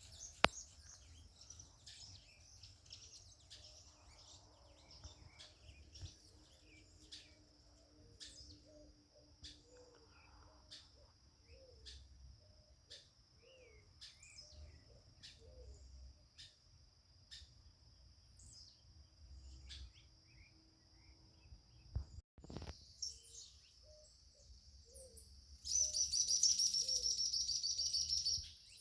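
Morning birdsong: many birds chirping with short high notes, and lower repeated calls under them, over a steady high-pitched whine. Near the end a loud, rapid buzzing trill runs for about three seconds.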